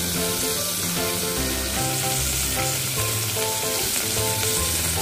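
Chicken pieces and potatoes sizzling steadily in hot oil in an aluminium pressure cooker, with soft background music.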